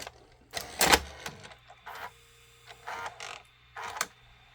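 Sony SLV-575UC VHS VCR's tape loading mechanism working, with short bursts of motor whirring and gear clicks as the test cassette is threaded into play. The loudest burst, with a thump, comes about a second in.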